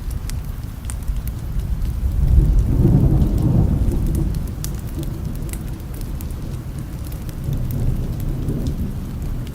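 Steady rain with scattered drop ticks, under a low roll of distant thunder that swells about two and a half seconds in and dies away over the next couple of seconds.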